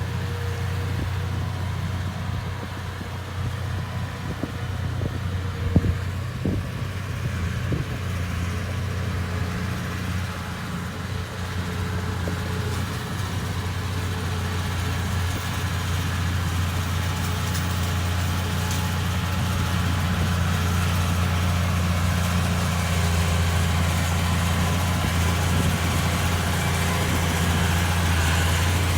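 Bulldozer's diesel engine running steadily with a low hum, with a few knocks, one of them sharp, about six seconds in. The engine grows slightly louder through the second half.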